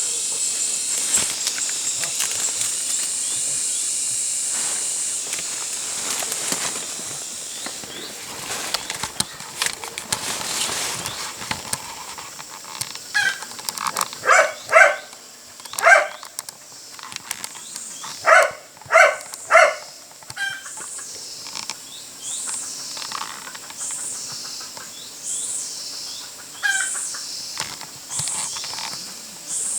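Birds calling in the jungle. A high steady hiss fills the first several seconds. In the middle comes a run of loud, short, pitched calls, mostly in pairs, and toward the end high quick chirps repeat.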